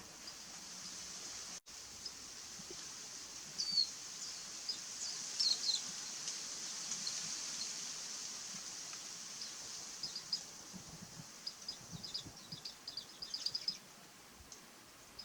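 Wild songbirds giving short, high chirps and calls, scattered at first, then a quick run of calls about ten to fourteen seconds in, over a faint steady hiss.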